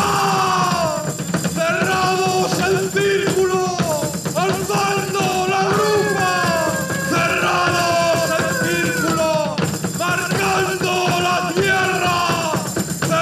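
Live band music: percussion under a melodic lead line with sliding notes.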